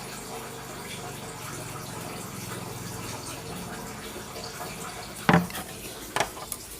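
A steady low hum with a faint hiss, then one hard knock about five seconds in and two lighter clicks soon after: hands and tools working on an LG twin-tub washing machine.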